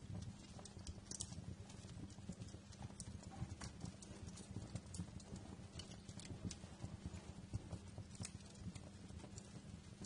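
Wood fire crackling: irregular sharp pops and snaps over a low, steady rumble of the burning logs.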